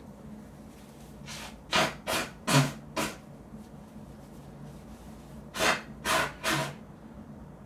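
A person blowing his nose hard into a tissue to clear a runny nose: a quick series of about five forceful blasts, then after a pause three more.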